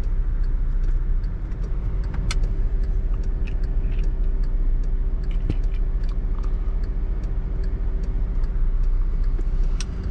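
Inside a moving car: a steady low rumble of engine and tyres, with scattered light clicks and rattles in the cabin.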